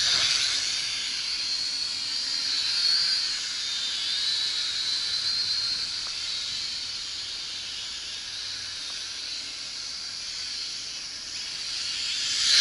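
Syma X5C toy quadcopter's four small coreless motors and propellers whining, the pitch wavering up and down as the throttle changes, growing louder near the end.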